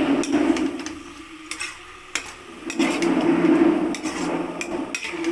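A ladle stirring and scraping chicken pieces through thick masala in a cooking pot, with clinks against the pot. There are two longer scraping strokes, one at the start and one about halfway through.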